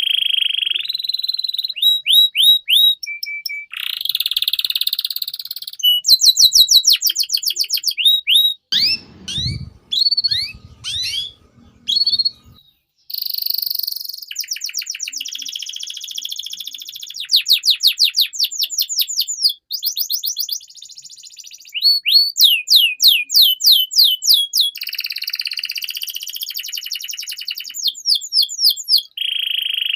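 Domestic canary singing a long, loud song made of rapid trills and rolls: runs of quick, high, repeated sweeping notes, each phrase lasting a second or two before the bird switches to another, with short pauses between phrases.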